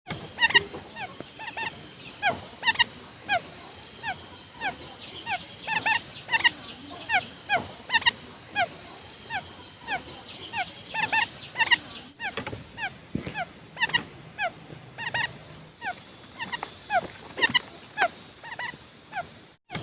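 Quail calling: a rapid, ongoing series of short, clipped notes that each drop in pitch, the kind of call played to lure wild quail.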